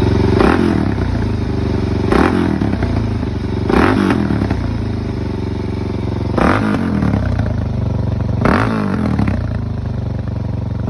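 Suzuki DR-Z400SM's single-cylinder four-stroke engine, breathing through an aftermarket Black Widow exhaust, idling steadily and blipped five times with short throttle revs. The bike has freshly cleaned carburetion and is running well.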